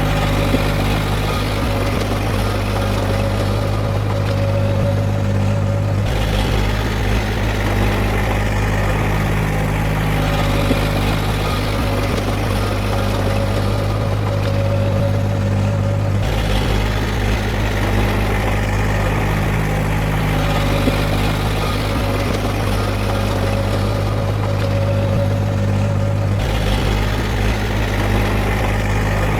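Heavy diesel engine of earthmoving machinery running steadily, with a strong low hum. The engine note shifts abruptly three times, about every ten seconds.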